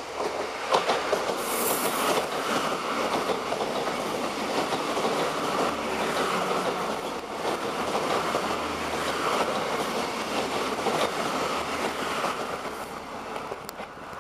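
Irish Rail 29000 class diesel multiple unit passing close by: wheels clicking and rumbling over the rails under a steady roar, with a faint low hum from the underfloor engines. The sound rises sharply as the cab arrives and fades near the end as the last car goes by.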